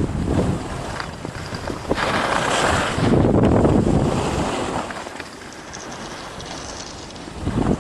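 Wind buffeting the microphone during a descent on snow, a rushing noise that swells strongly from about two to four seconds in, eases off after that, and surges again briefly near the end.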